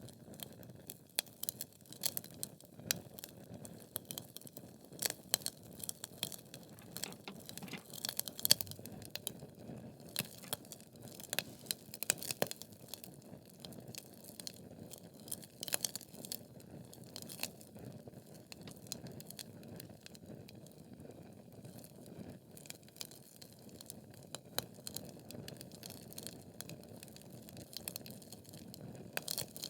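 Wood fire in a fireplace, burning logs crackling and popping irregularly over a low steady hiss, with a run of louder pops about a third of the way in.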